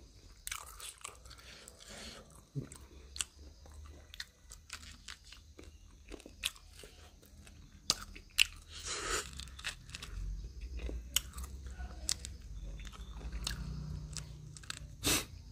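A person biting and chewing corn close to the microphone: irregular crunchy clicks, some in quick runs.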